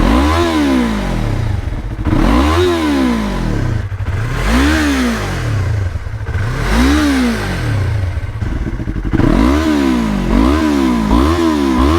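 Yamaha R3's parallel-twin engine through an Akrapovič GP slip-on exhaust, revved up and let fall again about every two seconds, then blipped faster and shorter in the last few seconds.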